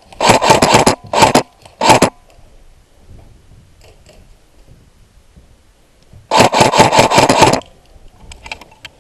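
Airsoft gun firing rapid full-auto bursts: three short bursts in the first two seconds, then a longer burst of about a second and a half a little after six seconds in.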